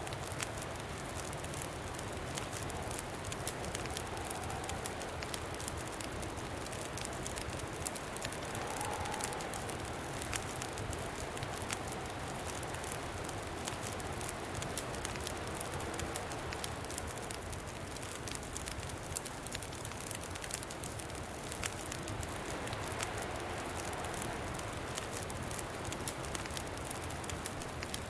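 Campfire crackling with frequent small sharp pops over a steady wind, with a faint howl that rises and falls now and then.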